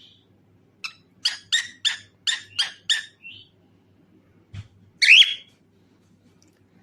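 Cockatiel calling: a quick run of about seven short, sharp chirps, then one louder, longer call about five seconds in.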